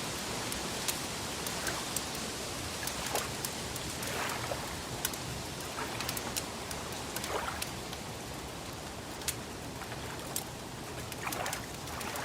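Crackling wood fire: a steady hiss with scattered sharp pops and crackles, and a soft swish every few seconds.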